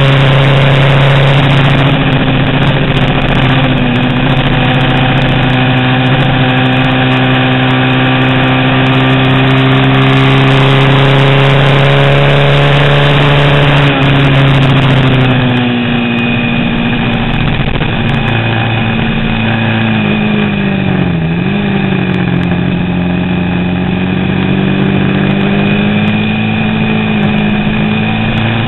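Vintage 350 cc racing motorcycle engine running hard at steady high revs. About halfway through the pitch drops, dips sharply once, then climbs back up as it pulls again.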